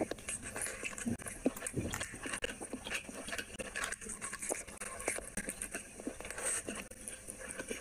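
Close-miked eating sounds of a person chewing a mouthful of rice and meat curry: wet, irregular chewing and lip-smacking clicks.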